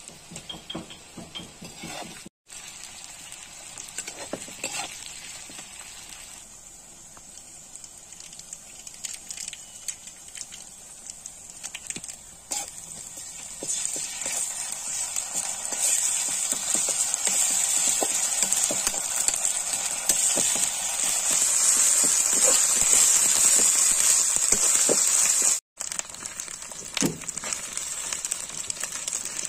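Sliced onions and green chillies sizzling in hot oil in an iron kadai, with scattered clicks of a metal spatula against the pan as they are stirred. The sizzle grows much louder about halfway through.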